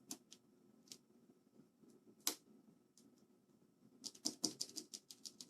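Cherry MX Blue keyboard switch clicking: a few scattered single clicks, then from about four seconds in a fast run of repeated key presses, around eight to ten a second. The key is being spammed to work an isopropyl alcohol and hot water mixture through a sticky switch.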